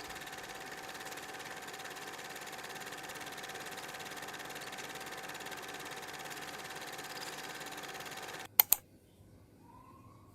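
A steady mechanical hum with a faint whine in it, which cuts off abruptly near the end and is followed at once by two sharp clicks.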